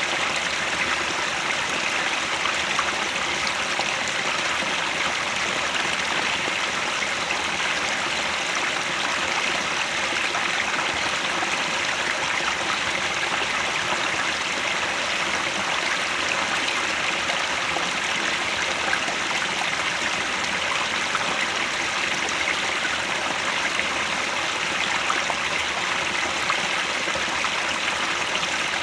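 Headwater stream flowing: a steady, even rush of running water.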